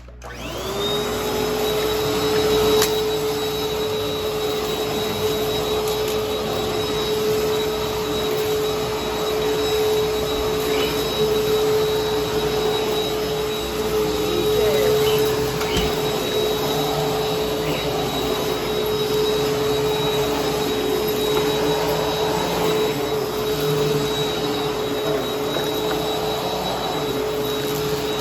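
Vacuum cleaner switched on, its motor spinning up within the first second to a steady hum with a high whine. It then runs on, picking up a mess, with a few faint crackles of debris partway through.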